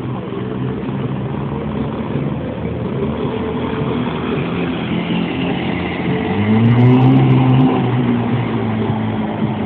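Motor of a radio-controlled model boat running on the water, a steady low hum that swells and rises then falls in pitch a little past the middle.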